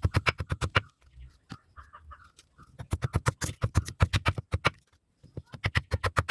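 Blacksmith's hand hammer striking a knife blade on the anvil in three quick runs of blows, about seven a second, with short pauses between.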